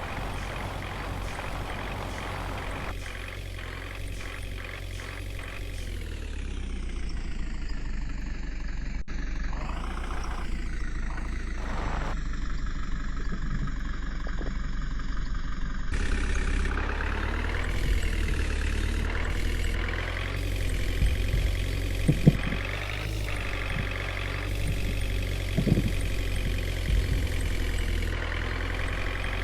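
Engine of a water tanker truck running, its pitch falling and rising as the engine speed changes, with a couple of short knocks in the second half.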